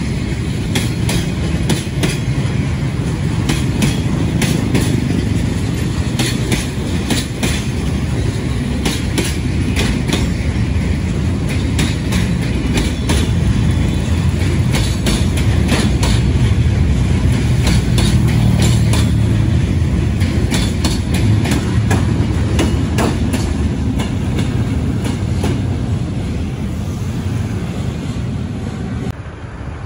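Container freight wagons rolling past close by, a steady heavy rumble with frequent sharp wheel clacks over the rail joints.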